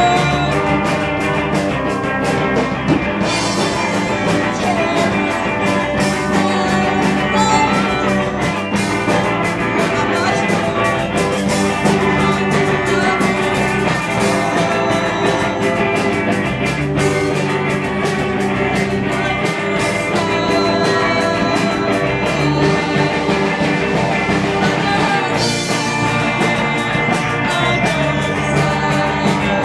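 Rock band playing live at full volume: electric guitars over a steady drum beat, with cymbal hits running through.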